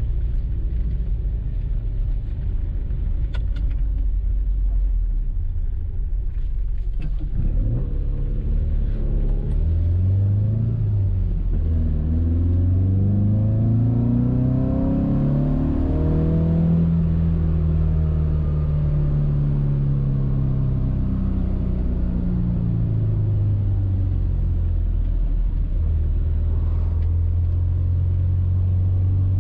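Alfa Romeo Giulia Super's four-cylinder twin-cam engine heard from inside the cabin while driving: a steady drone at first with a couple of faint clicks, then the engine note rises as the car accelerates, falls again as it eases off, and settles back to a steady drone near the end.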